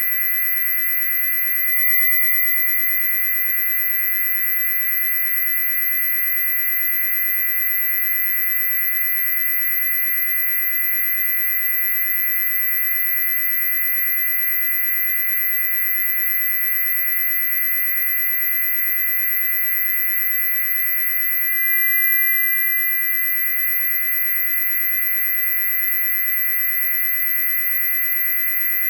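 Loud, steady electronic high-pitched tone with several lower steady tones layered beneath it, held without change. The lowest hum drops out for a moment about three-quarters of the way through.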